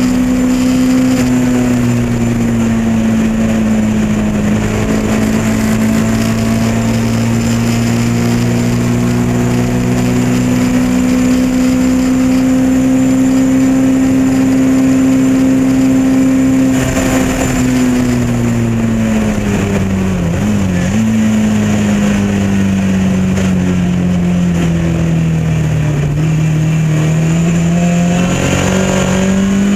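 Lotus Elan race car's four-cylinder engine running at high revs, held steady flat out. Just over halfway the note falls away as it slows, with a quick blip on a downshift, then it climbs again near the end as it accelerates.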